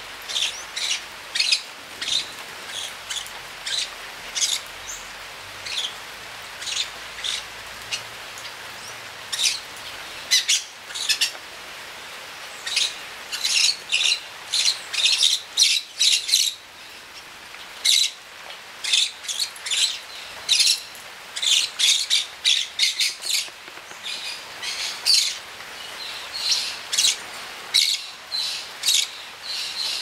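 Small birds calling: many short, high chirps, singly or in quick clusters of two or three, repeated irregularly throughout.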